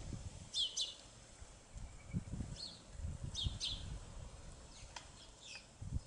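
Small songbirds chirping in a garden: short, high chirps in about four groups, some in quick pairs, over faint low thuds and rumble.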